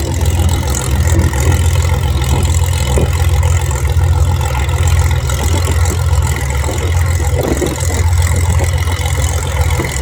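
Engine drone of the wingwalkers' Boeing Stearman biplanes making a pass, heavily overlaid by wind buffeting the microphone.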